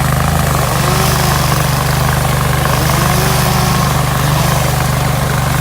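Hydraulic stump grinder's engine running steadily, with a higher whine that repeatedly swells and dips in pitch about once a second.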